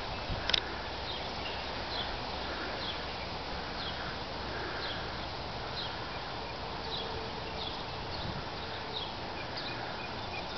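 A bird chirping repeatedly, short falling chirps about once or twice a second over a steady outdoor hiss.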